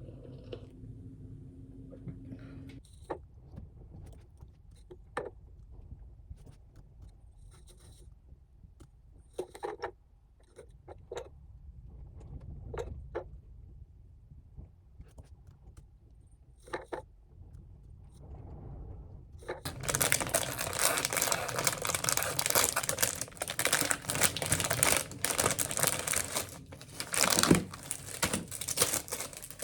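Small objects being handled: scattered light clicks and knocks, then about twenty seconds in a loud continuous rustling noise starts and carries on.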